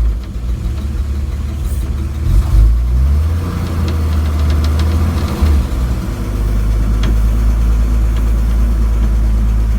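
A 1964 International truck's engine running at low revs as the truck creeps along slowly, a steady low drone whose note shifts slightly about six seconds in.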